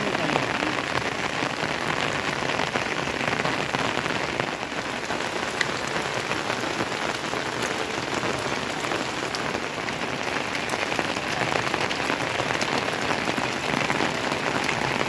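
Steady rain falling hard, with many individual drops pattering on a surface.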